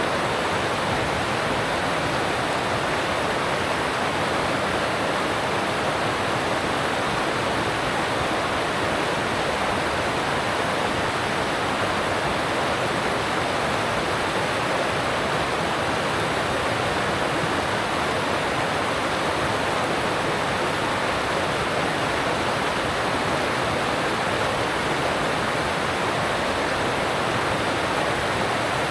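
Alpine stream water rushing past in a steady, even hiss.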